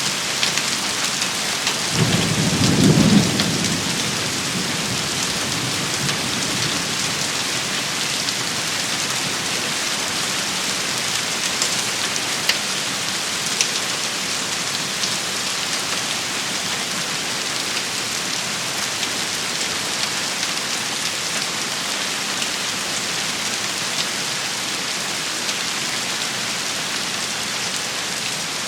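A steady rain shower hissing and pattering on surfaces. About two seconds in, a short low rumble of thunder swells and fades over a couple of seconds. A few sharper drop ticks stand out later.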